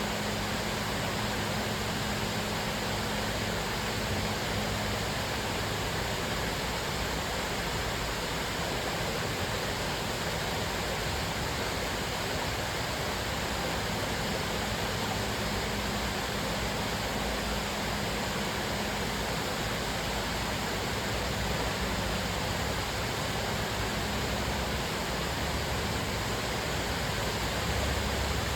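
Cascading waterfall: water falling and splashing in a steady, unbroken rush.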